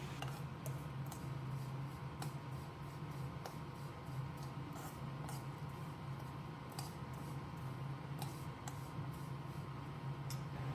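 Food cooking in a pan on the stove: faint, irregular little crackles and pops over a steady low hum.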